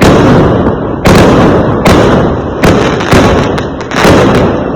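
Fireworks exploding one after another: about six loud bangs in under five seconds, each trailing into a rumbling echo.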